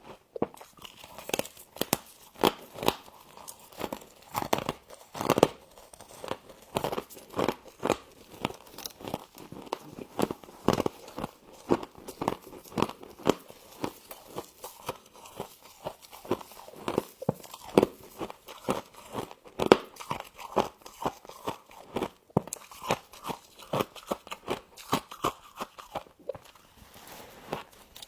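Close-up chewing of humidifier frost: rapid, crisp crunching and crackling as the ice is bitten and ground between the teeth.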